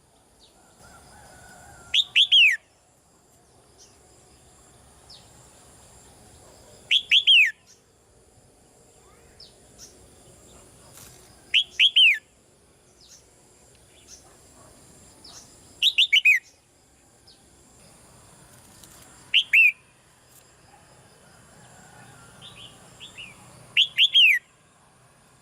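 Red-whiskered bulbul calling: six loud bursts, each of a few quick falling whistled notes, repeated about every four to five seconds, with fainter short chirps in between.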